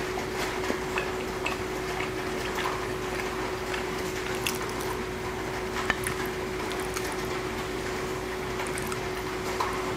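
Close-miked eating: wet chewing and small mouth clicks, over a steady hiss of rain and a constant low hum.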